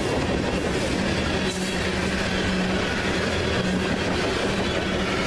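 Freight train of covered hopper cars rolling past close by: steady rumble and rattle of steel wheels on the rails, with a low steady tone underneath.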